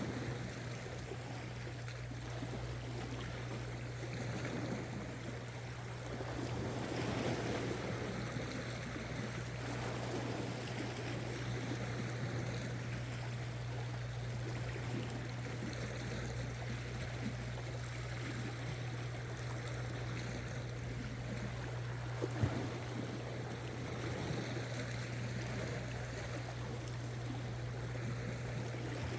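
Seawater washing and lapping against shore rocks, an even rushing wash over a steady low hum. A single sharp click about 22 seconds in.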